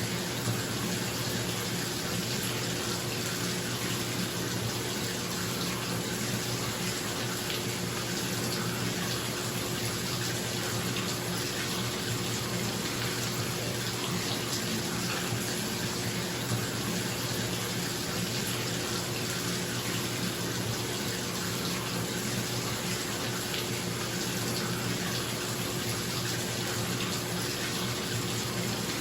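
Water running from a tap into a filling bathtub, a steady rushing splash, with a bathroom exhaust fan humming steadily underneath.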